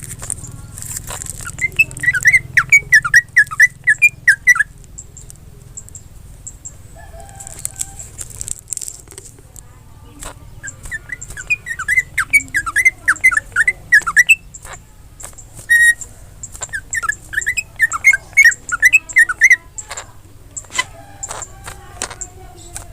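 Cucak ijo (green leafbird) singing in three bouts of rapid, repeated high notes, with sharp clicks scattered between and through them.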